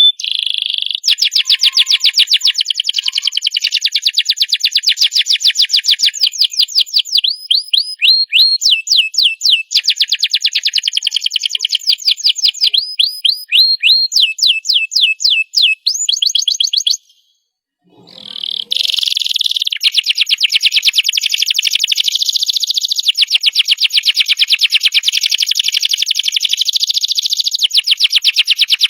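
Domestic canary singing fast repeated trills and long rolling phrases of rapid high notes, breaking off for about a second a little past halfway, then going straight back into one long unbroken roll.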